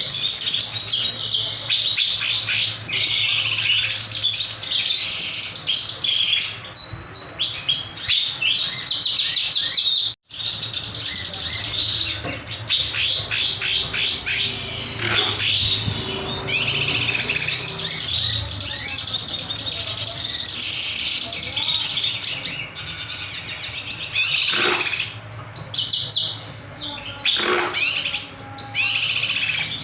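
A kinoy songbird singing in fast, sharp chirping phrases, the lively 'gacor' song used in Indonesian birdkeeping as a master recording to train or provoke other birds. The song breaks off for a moment about ten seconds in, with a steady low hum beneath it.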